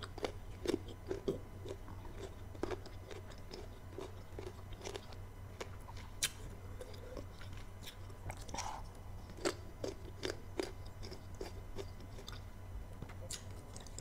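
Close-up chewing and crunching of crisp, very sour unripe mango, with irregular wet clicks and crackles from the mouth.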